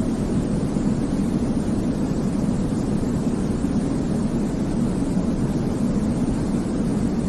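Steady baby-sleep 'white noise': an even, unbroken rumbling hiss, weighted toward the bass and thin in the treble, with no changes.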